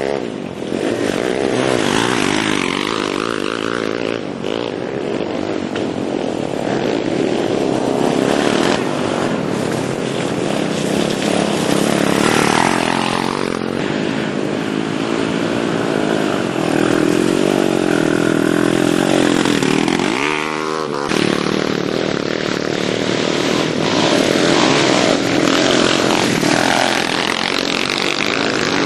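Several small four-stroke pit bike engines running together, revving up and down as the minibikes ride past, with a sharp rev rising about twenty seconds in.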